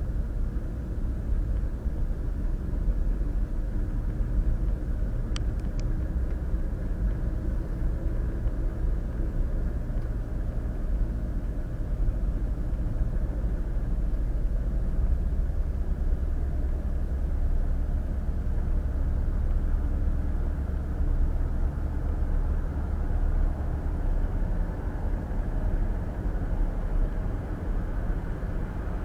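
Steady road noise of a car driving at highway speed, heard from inside the cabin: a low rumble of tyres and engine, with one brief faint click about five seconds in.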